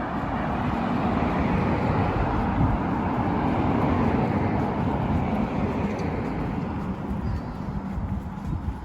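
A road vehicle passing by, its steady tyre and engine noise swelling and then slowly fading away.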